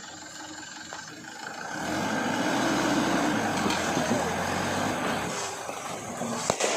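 Engine of a truck loaded with rubber running hard under load as it struggles up a slope. It grows louder about two seconds in and eases off after about five seconds. There is a sharp knock near the end.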